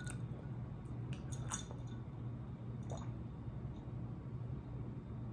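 A few faint, wet mouth smacks from chewing, over a steady low room hum.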